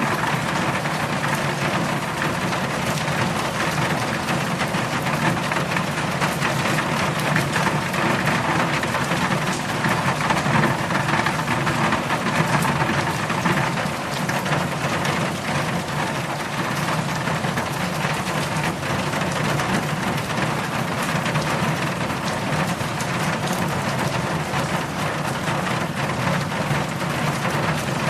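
Heavy rain falling steadily, a dense even hiss of drops with fine pattering throughout.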